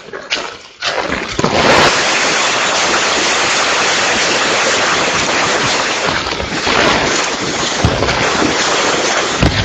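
Typhoon wind and rain on the microphone: a loud, steady rushing noise that drops away briefly just after the start.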